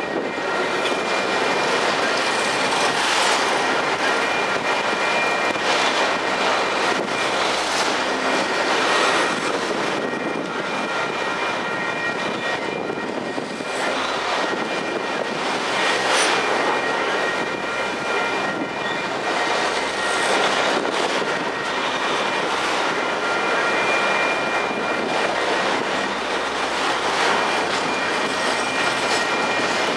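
A train rolling past on the rails: a steady wheel-on-rail rumble with a few sharper clacks at irregular moments and a thin, steady high-pitched ring above it.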